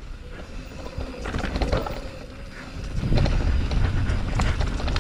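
Mountain bike starting down the trail: light clicks and rattles from the bike, then from about three seconds in a steady low rumble of tyres and wind on the microphone, with the rattling of the bike over rough ground.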